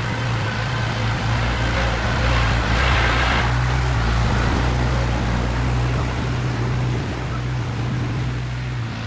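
A heavy vehicle's engine running steadily with a low drone, under a hiss that swells briefly about three seconds in.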